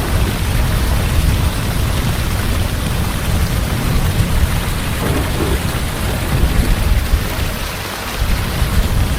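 Heavy rain pouring steadily, with a low rumble of thunder underneath.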